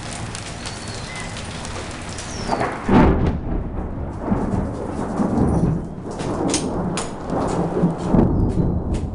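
A thunderclap from a dry thunderstorm about three seconds in, loud and sudden, followed by thunder rolling on in repeated rumbling surges.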